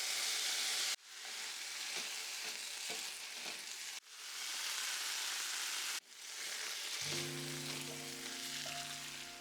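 Food sizzling and frying in a hot pan, as a steady hiss broken by a few sudden cuts. Soft piano music comes in about seven seconds in.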